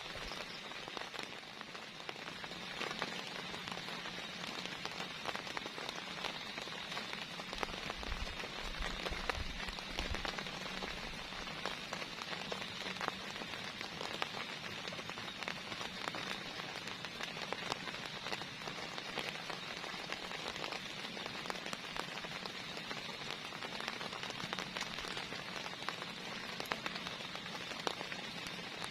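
Heavy rain falling steadily, with many individual drops ticking sharply on a surface close by. A brief low rumble comes about eight seconds in.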